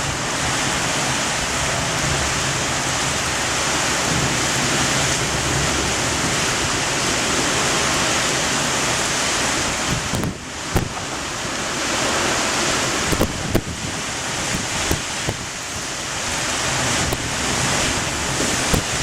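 Heavy rain and strong wind of a thunderstorm downburst, a steady dense rush of noise. There are a few sharp knocks a little past halfway and one near the end.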